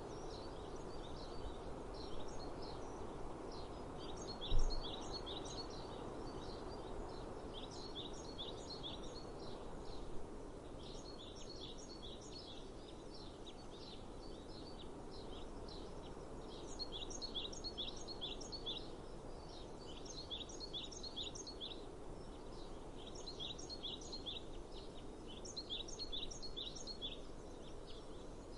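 A songbird sings repeated short phrases of rapid high chirps, a burst every couple of seconds, over a steady low outdoor rush of breeze. A single dull thump sounds about four and a half seconds in.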